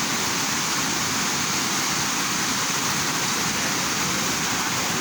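Waterfall: a large cascade of water falling and splashing in a steady, unbroken rush.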